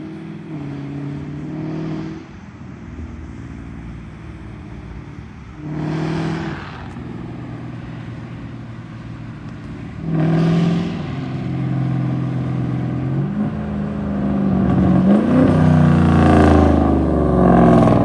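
Hemi V8 on a loud modified exhaust, accelerating hard in short surges with the pitch climbing and dropping between shifts. Near the end it grows much louder as the car comes by on a fly-by.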